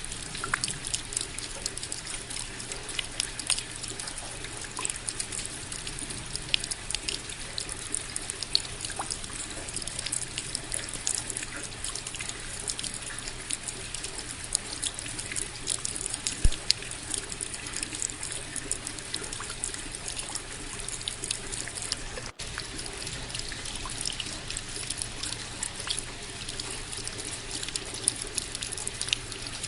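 Steady rain, with many close drops ticking sharply and water trickling. The sound cuts out for an instant about 22 seconds in.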